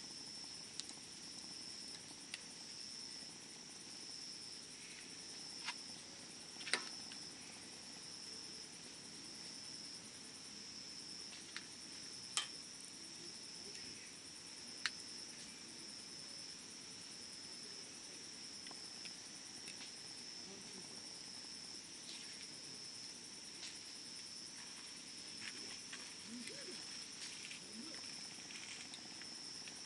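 Wood fire burning, with scattered sharp pops and crackles now and then, the loudest about a third of the way in. Under it, insects trill steadily at a high pitch.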